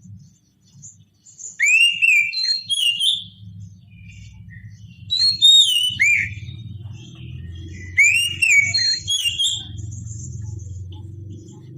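Oriental magpie-robin singing: three bursts of clear whistled phrases with notes gliding up and down, a few seconds apart, over a steady low hum.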